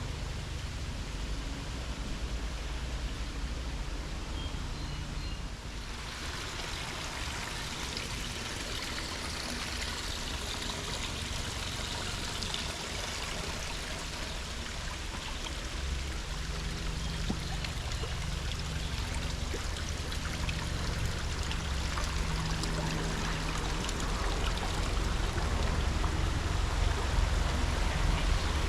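A small stream running and trickling. It comes in about six seconds in and grows louder toward the end, over a low steady rumble.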